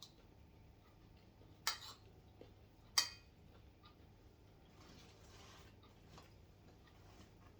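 Tableware clinking during a meal: two sharp clinks a little over a second apart, then a brief soft rustle and a few faint ticks.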